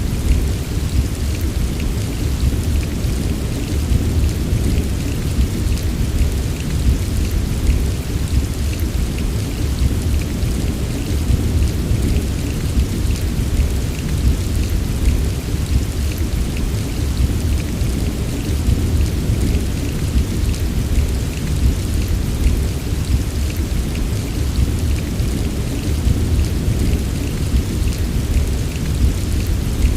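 Steady heavy rain with a constant deep rumble beneath it and a fine patter of drops higher up, unchanging throughout.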